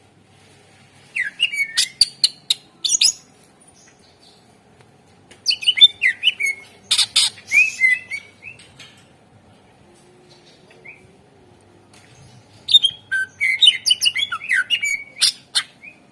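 Greater green leafbird (cucak ijo) singing in three bursts of rapid, varied whistled notes and sharp chattering clicks, with short pauses between bursts.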